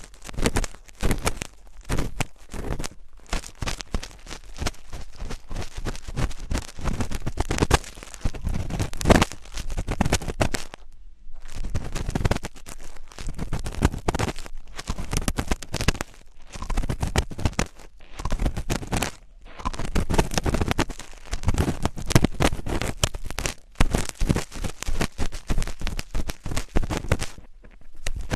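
Close-miked ASMR scratching and crackling, a dense run of irregular scratches that starts and stops in bursts with brief pauses, about 11 and 19 seconds in and near the end.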